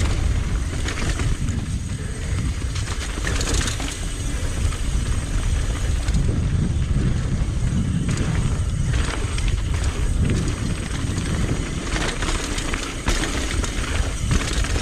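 Mountain bike riding down a rough, rocky trail: tyres rumbling over the ground with repeated knocks and rattles from the bike, and wind buffeting the camera microphone.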